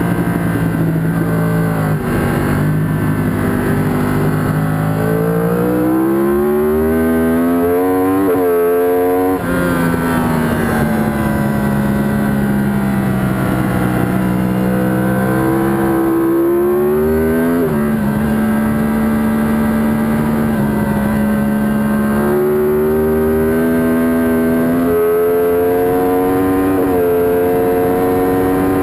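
Yamaha R1 inline-four race engine heard onboard at racing speed. Its revs climb with quick upshifts to a brief cut about nine seconds in, fall away while the bike leans through corners, then climb again in steps on the straight near the end.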